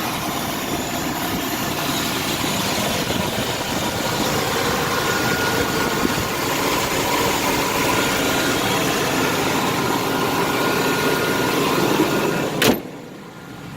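Rebuilt Chevrolet 350 V8 with throttle-body injection, idling steadily. A single sharp knock comes near the end, and the sound is much quieter after it.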